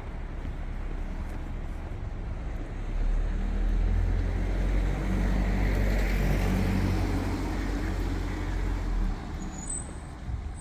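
A heavy road vehicle's engine rumbling past close by over steady city traffic noise, swelling from about three seconds in and fading near the end.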